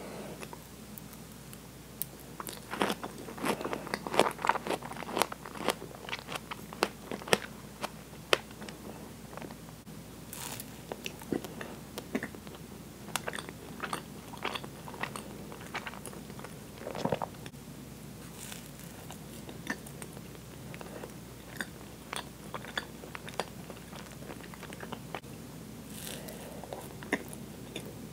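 Close-miked eating sounds: a mouthful of whipped cream and strawberry chewed with many wet mouth clicks, then a bite into a soft Twinkie sponge cake and more chewing.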